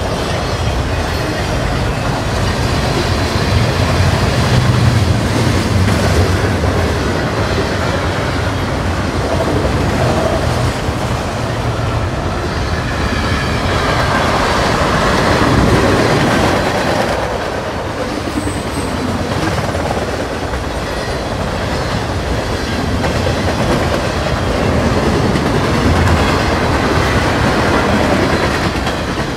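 Mixed freight train cars rolling past at speed, their steel wheels running on the rails in a steady, loud rumble that swells louder about halfway through.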